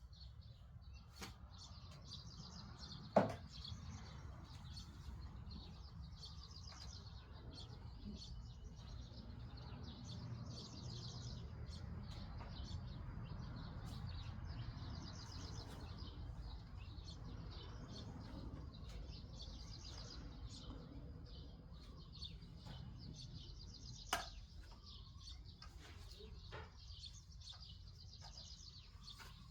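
Birds chirping in repeated short, high trills over a faint low rumble, with two sharp knocks, one about three seconds in and one near the end.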